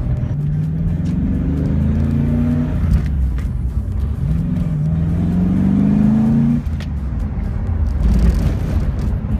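Swapped-in Ford 5.0 V8 accelerating under load, its revs climbing twice with a short break between. About six and a half seconds in, the note drops off suddenly as the throttle is closed.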